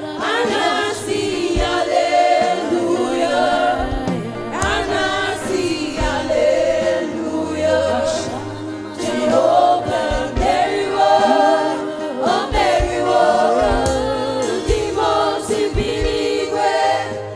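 Live gospel worship music: a choir singing with wavering, sustained notes over instrumental backing.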